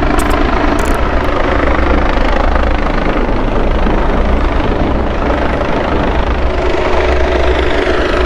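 Helicopter running close by: a loud, steady rotor and engine noise that doesn't change.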